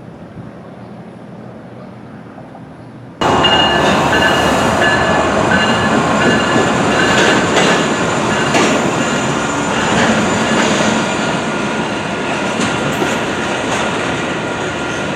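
Train passing close by: the loud rumble and rattle of rail cars with steady high wheel squeal, starting abruptly about three seconds in after a stretch of quieter wind noise.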